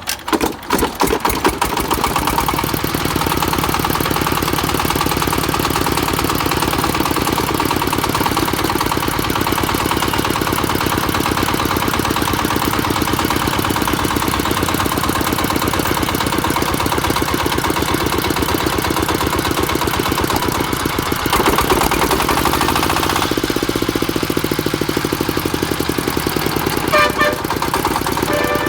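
A 20 HP single-cylinder diesel engine catching and quickly building to a steady run, with an even, rapid firing clatter. Its sound shifts briefly about 21 seconds in, then settles again.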